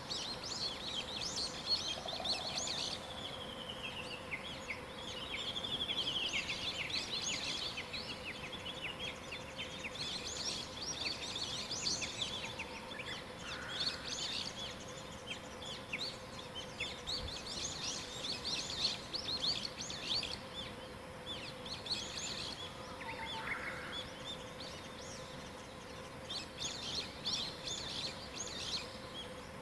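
Several wild songbirds singing and calling in a morning chorus: overlapping chirps, trills and down-sweeping phrases, with a faint steady hum beneath.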